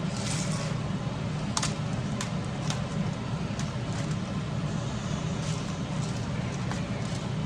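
A steady low hum, with a few light clicks and taps scattered through it.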